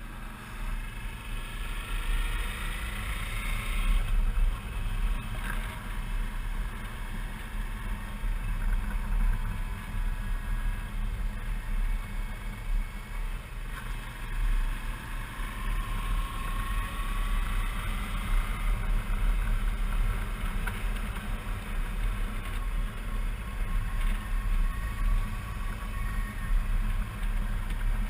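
Suzuki V-Strom 650's V-twin engine running steadily at road speed, a continuous low rumble with wind and road noise on the ride.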